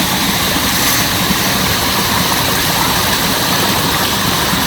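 Steady rushing noise of a fast glacier-fed mountain stream close by.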